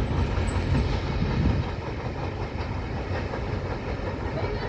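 A train running past on the tracks with a steady low rumble of wheels on rail, easing slightly after about a second and a half.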